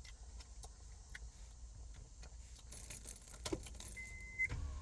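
Someone biting and chewing a buffalo chicken wing, with faint small clicks and a knock about three and a half seconds in, over the low steady hum of a car's running engine. Near the end a high electronic beep starts, repeating about once a second.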